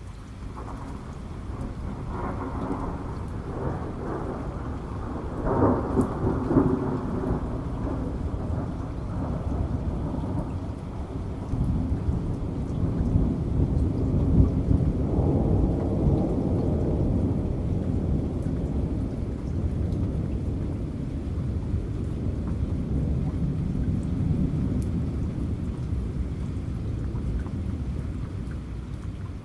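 Steady heavy rain with a long roll of thunder rumbling over it, swelling about a second in, growing loudest in two waves, and easing off near the end.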